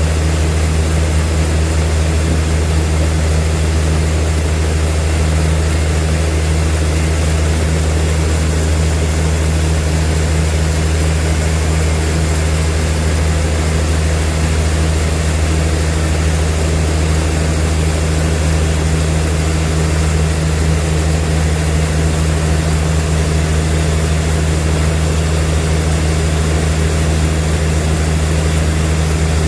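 Sawmill machinery running with a steady, unchanging deep hum.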